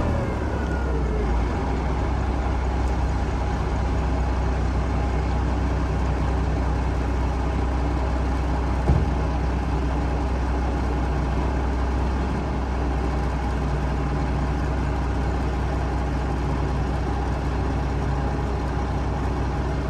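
Dump truck engine running steadily at idle, its pitch falling over the first second as the revs drop. There is a single short knock about nine seconds in.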